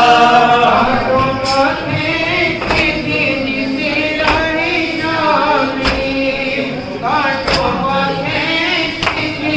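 A group of voices chanting an Urdu nauha, a mourning lament, with a sharp slap landing about every second and a half in time with the chant, as of matam (chest-beating).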